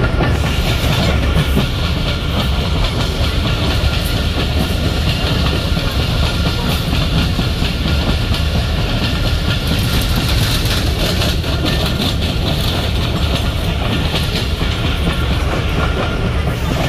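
Passenger train running at speed, heard from on board: a steady, loud rumble of the wheels on the rails and the moving coach.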